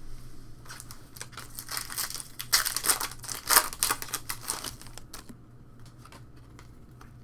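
Trading-card packaging crinkling and crackling as cards and wrappers are handled, a dense run of quick crackles that is loudest around the middle and thins out near the end.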